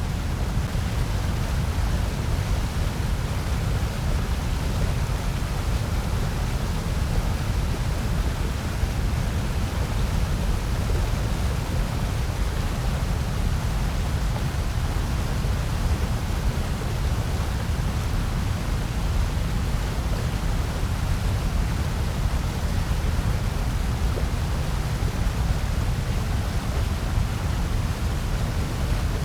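Steady, unchanging electronically generated noise of the kind sold as white noise for sleep and focus. It is a continuous rushing hiss with most of its weight in the low end.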